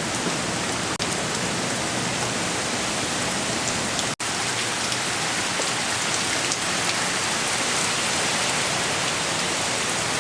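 Heavy hurricane rain pouring down as a steady, dense hiss. The sound cuts out for an instant twice, about a second in and about four seconds in.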